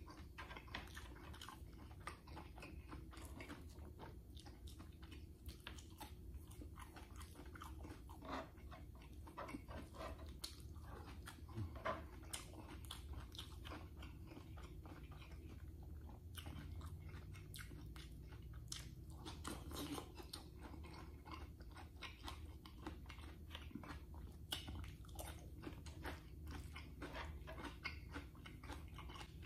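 Close-up chewing of a mouthful of rice and corned beef eaten by hand, with many small crunches and mouth clicks throughout. A steady low hum runs underneath.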